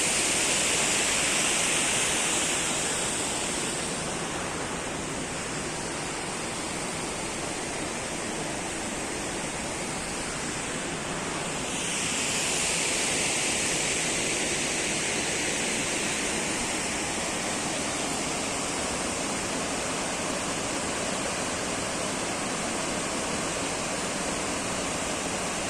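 Waterfall running: a steady rush of falling water that eases a little a few seconds in, then grows louder and brighter again about twelve seconds in.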